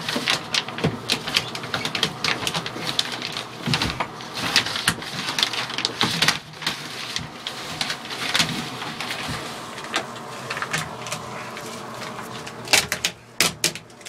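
Irregular clicking, tapping and rattling of hand work with tools and parts, over a faint steady hum. There are several sharp knocks near the end.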